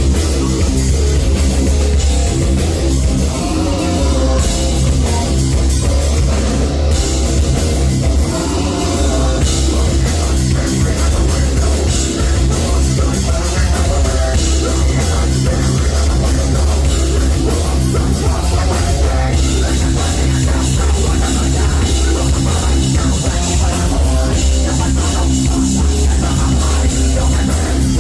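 A live heavy metal band plays loud and steady, with distorted electric guitars, drum kit and a heavy bass low end.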